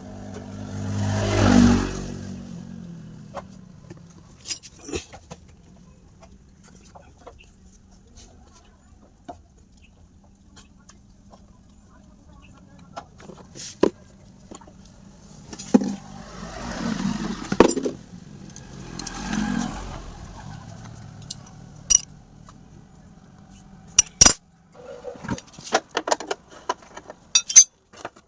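A small engine running steadily, with a brief rev about a second in and more revving swells later. Sharp metallic clicks and clinks of tools come throughout, more of them near the end.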